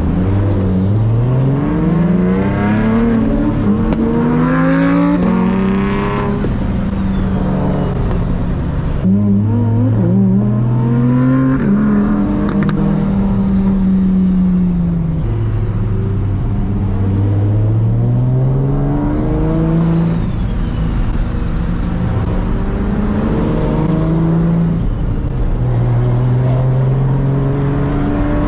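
Big-turbo Nissan 350Z's VQ35HR V6 driving under load, revs climbing in runs and dropping back sharply at the upshifts, then settling into steadier cruising revs in the second half.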